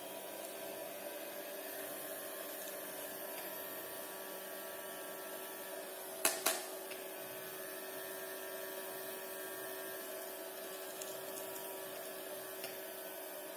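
Small battery-powered DC motor spinning the fan of a homemade water-bottle vacuum cleaner model, running with a steady whine. Two sharp clicks in quick succession about halfway through.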